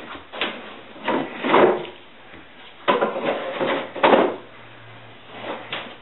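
A sacrificial board being fetched, slid and laid down on a table saw's top. It makes a series of short scrapes and knocks, about five in all, with pauses between them.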